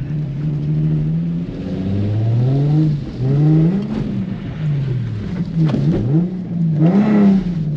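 Nissan 350Z's 3.5-litre V6 engine revving hard, its pitch rising and falling several times as the throttle is worked through a spin attempt on wet pavement. It is loudest near the end.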